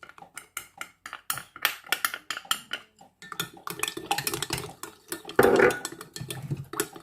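A spoon stirring cornstarch into a sauce mixture in a bowl, clinking quickly against the bowl at about four strokes a second, then scraping more continuously, loudest a little past five seconds in.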